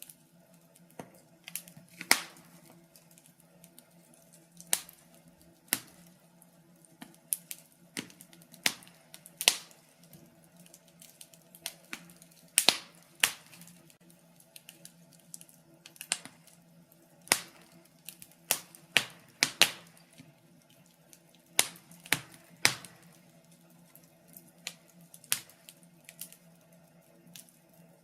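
Wood fire crackling: logs burning with irregular sharp pops and snaps, some single and some in quick clusters, over a faint steady low hum.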